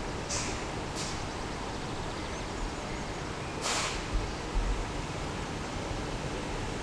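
Steady outdoor background hiss with wind buffeting the microphone, low rumbles about two-thirds of the way through and a few brief rustling hisses. No crossing alarm or train is heard.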